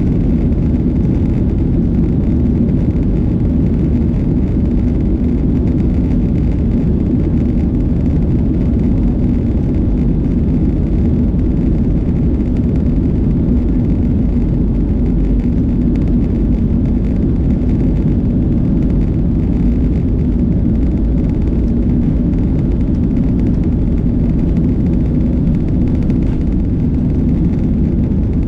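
Steady, loud, deep rumble of a Boeing 737-700's CFM56 jet engines and airflow, heard inside the passenger cabin during takeoff.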